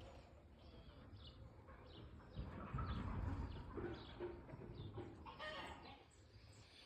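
Birds chirping in short repeated calls, with a low rumble that rises in the middle and is the loudest part.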